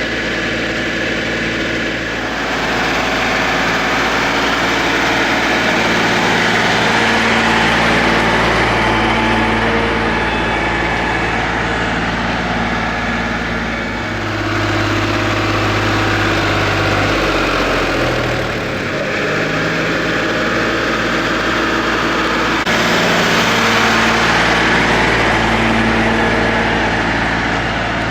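Eicher tractor diesel engine running under way, with the engine note shifting several times; about two-thirds of the way through, a deeper drone slides down in pitch and fades out.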